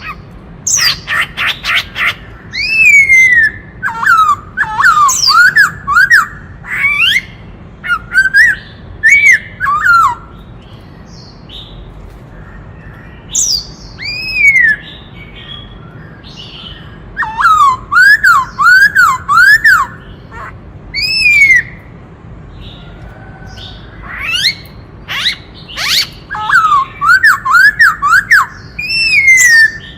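Black-throated laughingthrush singing loudly. Its song is made of whistled phrases of quickly repeated up-and-down notes, mixed with rapid rattling notes. It sings in bouts with short pauses between them.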